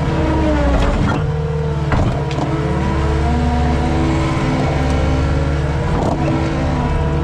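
Skid steer engine running steadily at working speed, its pitch shifting a little with load, with a few sharp knocks about one, two and six seconds in.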